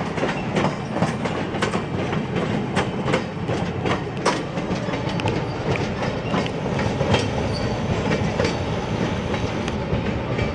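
Tour train's open passenger cars and caboose rolling past on the rails, a steady rumble with wheels clicking over the rail joints; the clicks come less often near the end as the caboose moves away.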